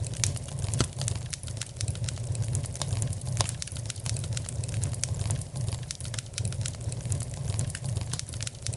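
Fire crackling in a fireplace: many irregular sharp pops and snaps over a steady low rumble.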